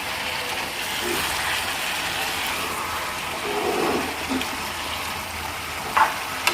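Boneless chicken sizzling steadily in its own released juices in a pan as it is stirred, with a short sharp click near the end.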